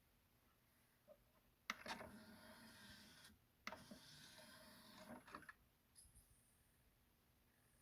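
Sony CDP-228ESD CD player's mechanism running in two short whirring bursts, each starting with a click.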